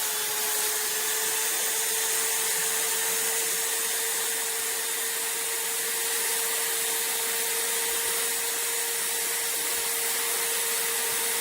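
An electric power tool running steadily at constant speed: an even hiss over a constant motor whine.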